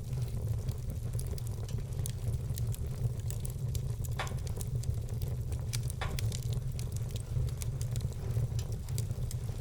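Wood fire burning in a fireplace: many small irregular crackles and pops, with a few louder pops about four and six seconds in, over a steady low rumble.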